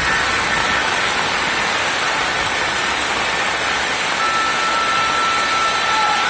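Steady, loud rush of water from heavy rain and the flooded river. A faint thin steady tone comes in about four seconds in.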